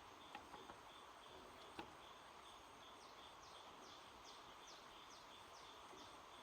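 Near silence: faint outdoor ambience with a small chirp repeating about twice a second. About halfway in, a run of about eight quick, falling wildlife calls joins it, and a few tiny clicks come early on.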